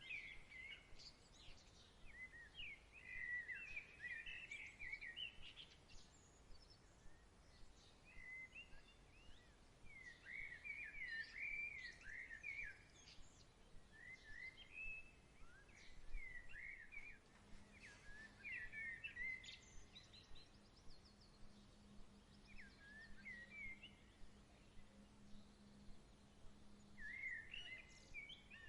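Songbirds chirping and warbling in short bursts every second or two over a quiet outdoor background; a faint steady low hum joins a little past halfway.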